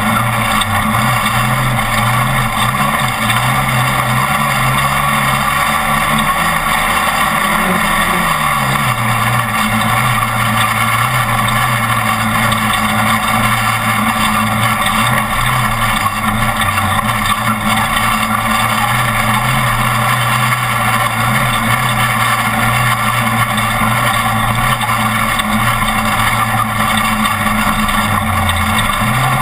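Off-road race truck's engine running hard at fairly steady revs, easing off and picking back up about eight seconds in and again briefly near the end, over a steady rush of wind and road noise.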